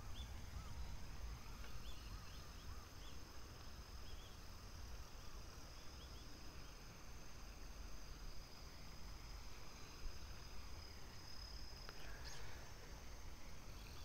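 A small bird giving short, repeated chirping call notes, clustered in the first few seconds, over a thin steady high-pitched buzz and a low wind rumble; a brief click sounds near the end.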